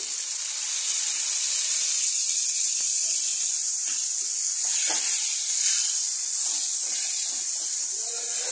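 Ground onion gravy sizzling loudly as it hits hot oil in an aluminium kadai, a steady high hiss while it is stirred with a metal spatula.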